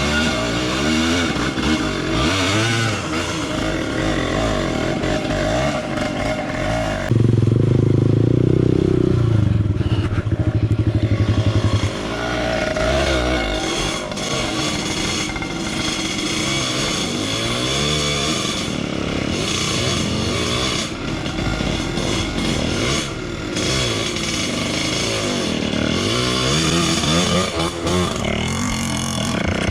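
Honda CRF150L dirt bike's single-cylinder four-stroke engine revving up and down as it is ridden along a trail, with a louder stretch of hard throttle from about 7 to 12 seconds in.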